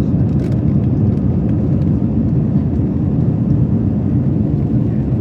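Steady low cabin roar of an Airbus A321 in flight, its jet engines and rushing airflow heard from a passenger window seat, with a couple of faint clicks about half a second in.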